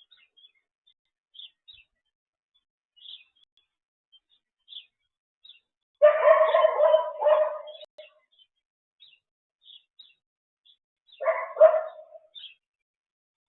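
Small birds chirping with short, high notes about once a second. A dog barks in a run of several barks about six seconds in, and again in a shorter run near the end.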